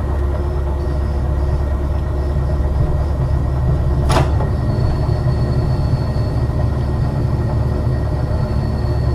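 Ex-Liverpool Corporation tram 869 running along the track: a steady low rumble with a faint high whine that joins about five seconds in. A single sharp click about four seconds in.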